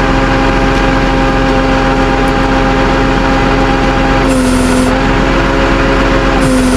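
Truck engine running steadily with an even hum; its pitch drops slightly about four seconds in, comes back up, and drops again near the end.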